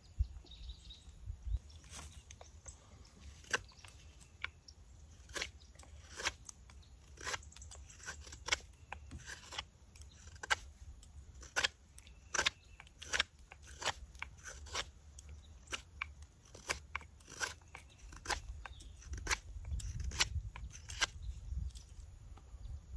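A carving blade slicing walnut wood as a spoon is hand-carved: a series of short, crisp cuts, about one or two a second, unevenly spaced. A low rumble rises near the end.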